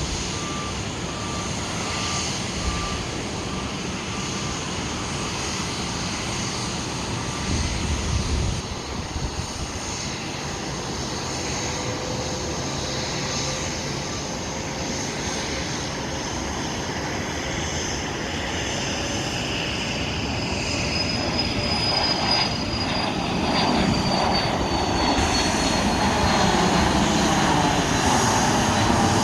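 Twin turbofan engines of a Cessna Citation Bravo business jet taking off, a steady jet noise that grows louder over the last third, with a high whistle sliding down in pitch about two-thirds of the way through.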